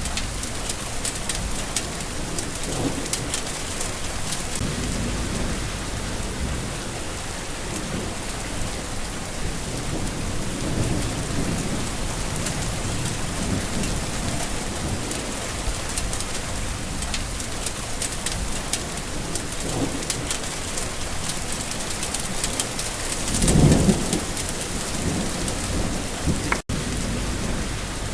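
Steady rain, with low thunder rumbling now and then and one louder roll of thunder late on. A very brief dropout near the end.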